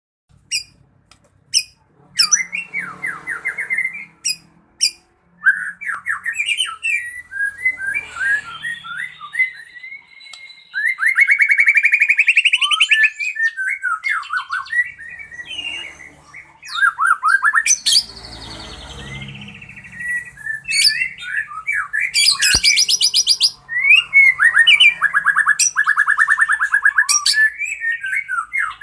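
White-rumped shama singing a long, varied song of sweeping whistled phrases, fast trills and chattering notes, with sharp clicks near the start and a harsh rattling phrase about 22 seconds in.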